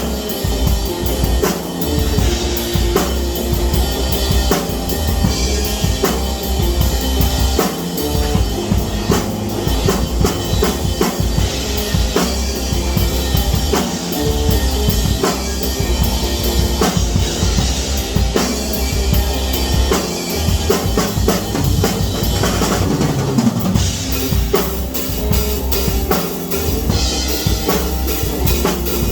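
Music driven by a full drum kit: steady kick and snare hits with cymbals, over a heavy bass line and other pitched instruments, playing without a break.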